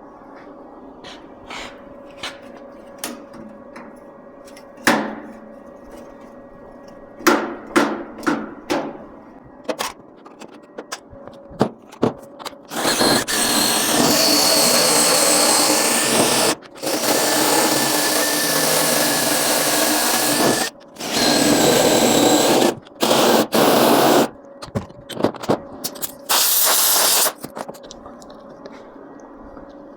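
Handheld power tool running at high speed in several long bursts with short breaks. Scattered clicks and knocks come before it.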